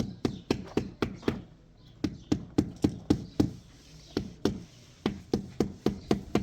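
Fast, even knocking, about four sharp strikes a second, with a short break about a second in before it starts up again.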